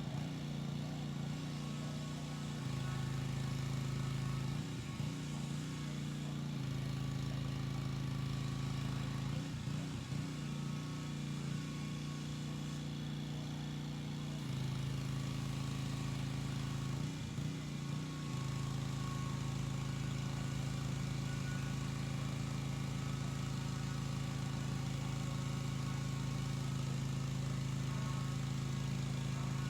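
Gas pressure washer engine running steadily, its note shifting several times as the load changes.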